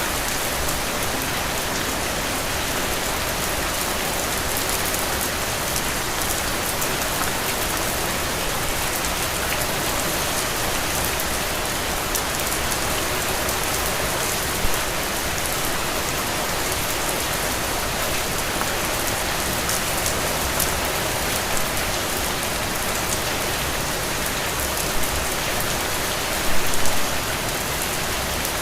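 Heavy rain falling steadily, a dense even hiss, with a few brief louder hits, a small cluster of them near the end.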